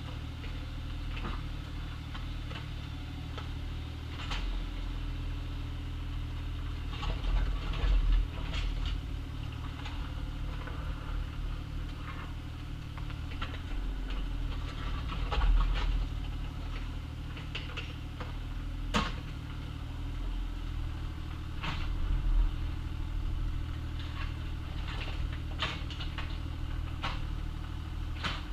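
Bobcat excavator's diesel engine running steadily while digging, with scattered knocks and clanks from the bucket working gravel and dirt. The engine swells briefly under load a few times.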